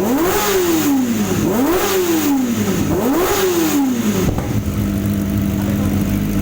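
Kawasaki ZX-25R inline-four engine through a Lone Rider aftermarket exhaust, revved in repeated throttle blips. Each rev rises quickly and falls away, about one every second and a half. About four seconds in it settles to a steady idle, and the sound cuts off abruptly at the end.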